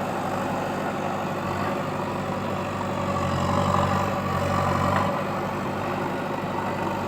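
Heavy diesel engine running steadily, growing louder for about two seconds in the middle before settling back.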